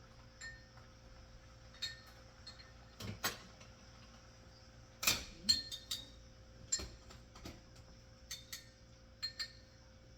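Light, scattered clinks and taps of a utensil against dishes, about a dozen over ten seconds, some ringing briefly; the loudest cluster comes about halfway through.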